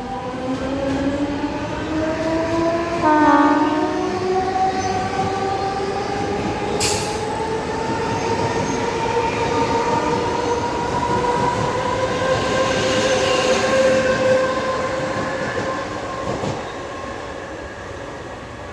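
Mumbai suburban electric local train pulling away, its traction motors whining and rising slowly in pitch as it gathers speed, with a short horn blast about three seconds in. The sound fades toward the end.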